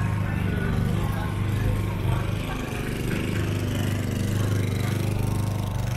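A motor vehicle's engine running steadily at idle, a constant low hum, with indistinct voices of people in the street around it.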